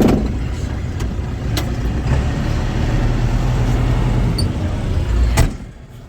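Tractor engine running steadily, heard from inside the cab while it pulls a fertilizer spreader, with a few sharp knocks and rattles. The sound drops off sharply near the end.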